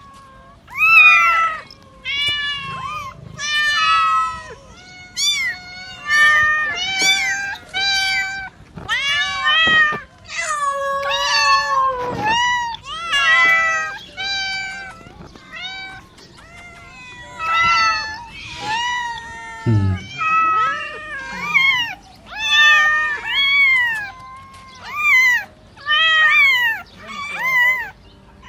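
Domestic cats meowing over and over: short calls one after another, each rising then falling in pitch, about one or two a second, with some calls overlapping.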